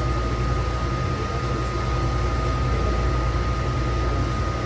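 Interior running noise of a Taichung MRT Green Line metro train: a steady low rumble with a thin, steady whine above it.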